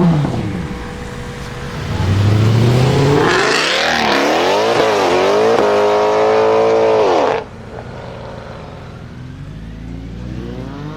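Mercedes-Benz C63 AMG V8 through an iPE aftermarket exhaust, accelerating hard and very loud. Its note climbs, dips and climbs again a few times for about four seconds, then cuts off abruptly. A quieter engine note then rises steadily in pitch.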